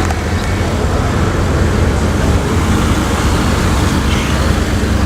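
Steady low car engine rumble at low revs, with road traffic noise and no revving or exhaust crackles.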